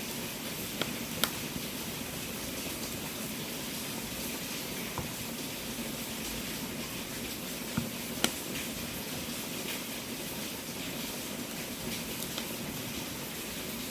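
Wood fire burning in a fireplace: a steady hiss with occasional sharp crackling pops, the loudest about a second in and around eight seconds in.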